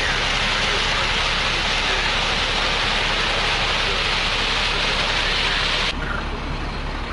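Concrete mixer truck's engine running steadily under a loud, even rushing hiss. The sound changes abruptly about six seconds in.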